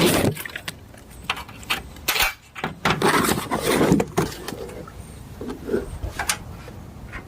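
Scattered clinks, knocks and rustling from things being handled, with a denser stretch of noise about three to four seconds in.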